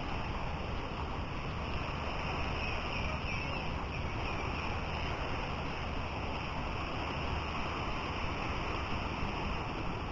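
Steady beach ambience: wind buffeting the microphone over the wash of sea surf.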